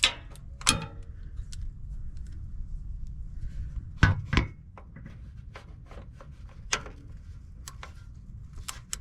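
Irregular metal clicks and knocks of a wrench working a stuck plug loose on a Toyota Tundra's oil filter housing, with two sharper knocks about four seconds in and a run of light ticks after them.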